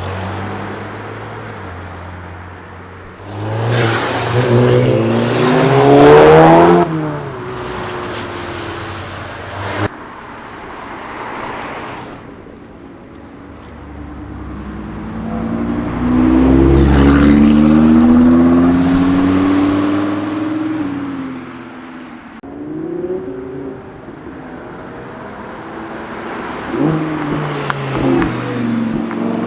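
Cars accelerating hard past one after another, each engine revving up in pitch through the gears. The loudest pass comes about four to seven seconds in, another around the middle, and a third starts near the end.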